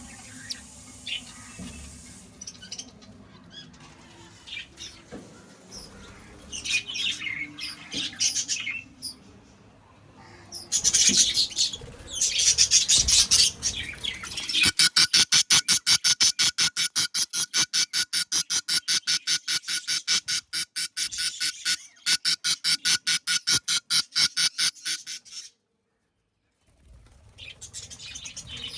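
Budgies chirping and squawking, louder from about a third of the way in. This is followed by a long run of fast, evenly spaced pulsing calls, about four or five a second, which cut off abruptly about a second before the chirping picks up again.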